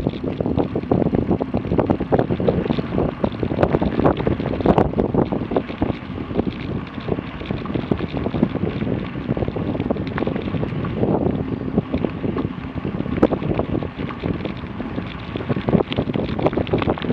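Wind buffeting the microphone while riding an electric bike along a gravel trail, over a continuous rumble with irregular crackling from the tyres rolling on the gravel.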